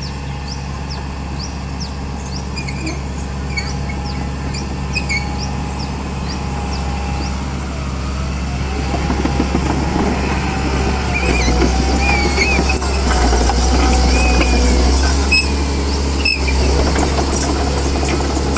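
Komatsu D31P crawler bulldozer working, its diesel engine a steady low drone that grows louder from about eight seconds in, with high wavering squeals from the machine through the second half.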